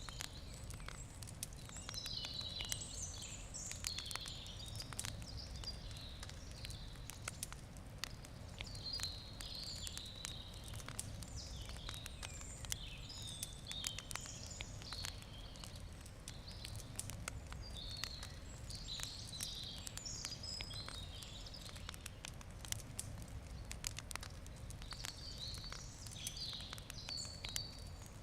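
Wood campfire crackling, with frequent short sharp pops, while birds chirp over it again and again.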